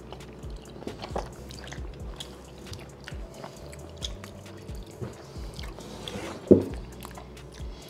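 Close-up mouth sounds of people chewing soft dumplings, with small wet clicks throughout. A single louder knock comes about six and a half seconds in.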